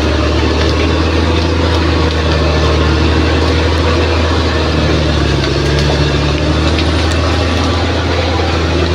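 Heavy earthmoving machine's diesel engine running steadily, its note shifting slightly about five seconds in.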